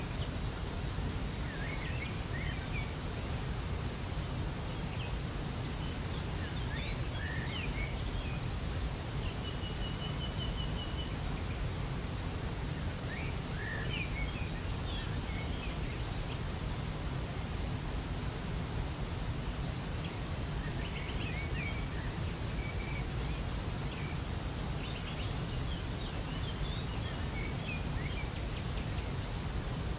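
Waterfall rushing steadily, with songbirds chirping now and then above it, including a short rapid trill about a third of the way through.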